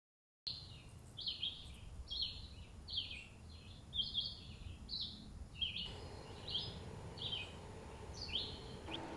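A bird calling over and over in short slurred chirps, about one and a half a second, over a low background rumble.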